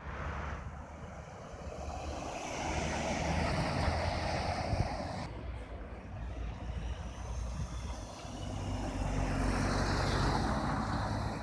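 Roadside traffic with heavy trucks going by: a steady engine rumble and tyre noise that swells twice as vehicles pass close.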